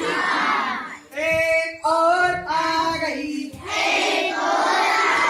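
A group of children singing a Hindi counting rhyme in chorus, with a single voice singing a line alone in the middle before the group comes back in.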